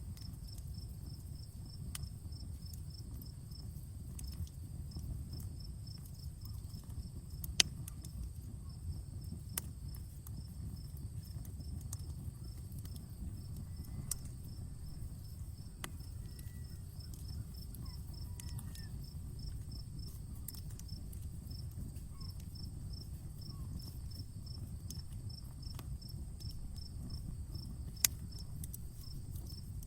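Campfire burning with a low steady rush and scattered sharp crackles, two loud pops standing out, one about a quarter of the way in and one near the end. Crickets chirp throughout in a fast, even, high pulsing trill.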